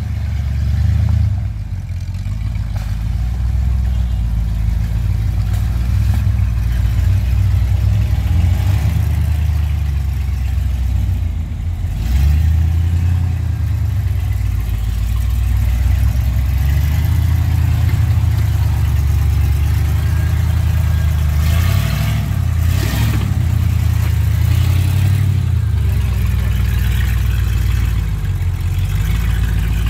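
8.4-litre big-block V8 of a mud-covered offroad Jeep running under load, its revs rising and falling over and over as it pulls through deep mud. About two-thirds of the way through there is a brief rougher burst of noise.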